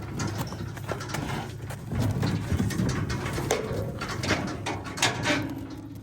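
Livestock moving about inside a metal stock trailer: hooves knocking and clattering on the floor and sides many times, over a low steady hum.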